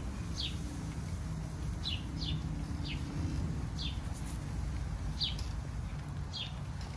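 A small bird chirping over and over: short, falling chirps about once a second, over a low steady background rumble.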